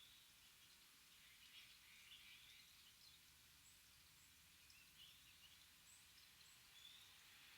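Faint, scattered small-bird calls: short chirps and brief notes coming every second or so over a low, steady forest hiss.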